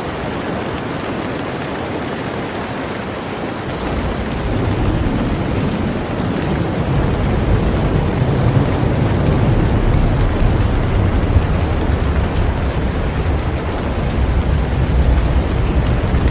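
Heavy rain falling on a boat, a steady dense hiss. About four seconds in, a deep low rumble sets in under the rain and goes on.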